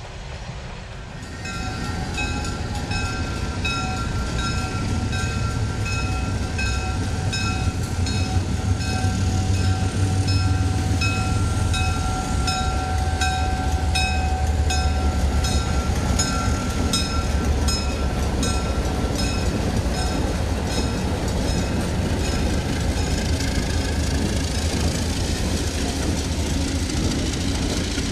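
Diesel-hauled freight train passing, its low engine rumble growing louder about two seconds in. Over it a bell dings in a steady rhythm a little faster than once a second, and a steady high wheel squeal runs through the first half or more, then fades.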